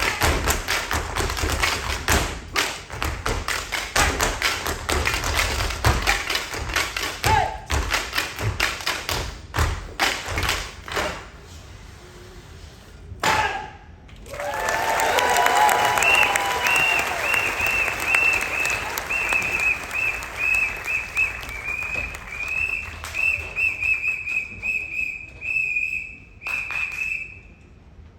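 Tap dancers' stomp percussion: fast, dense stamping and striking for about the first eleven seconds. Then, after a sharp hit, the audience cheers and claps while a high whistle sounds on and off through the rest.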